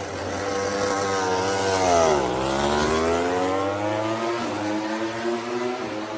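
MotoGP racing motorcycle engine on track, its note falling to a low point about two seconds in, then climbing steadily as the bike accelerates.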